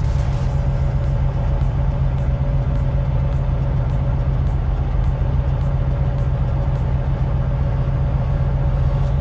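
A heavy machine's engine running steadily: a constant low hum with a steady higher tone over it, unchanging throughout.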